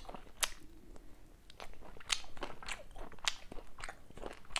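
Close-miked mouth sounds of a person chewing a roasted peri-peri chicken wing: a string of irregular short, sharp clicks, heaviest in the second half.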